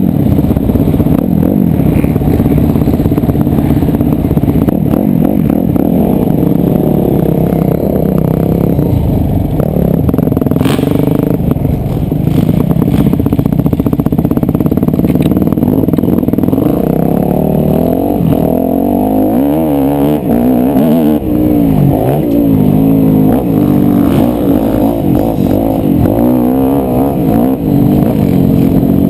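Yamaha YZ250F four-stroke single-cylinder motocross bike engine being ridden hard, its pitch repeatedly rising and falling as the throttle opens and shuts. A sharp knock comes about eleven seconds in.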